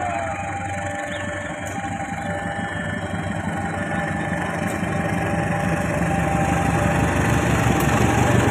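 Diesel locomotive engine rumbling, growing steadily louder as it approaches.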